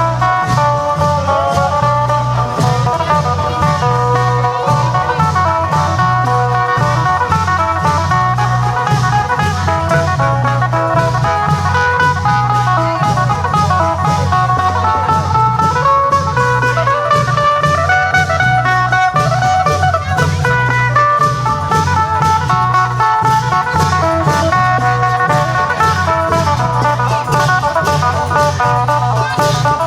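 Amplified phin, the Isan plucked lute, playing a busy running melody over a steady drum beat from the klong yao long-drum band.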